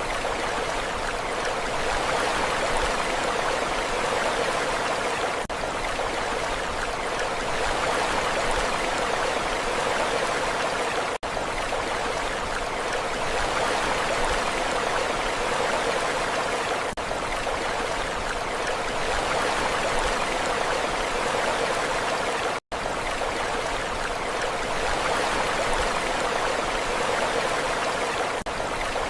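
Steady rushing water, an even hiss without clear wave swells. It is a short recording looped over and over, with a brief dip at each join every five to six seconds, one cutting out completely for an instant about three quarters of the way through.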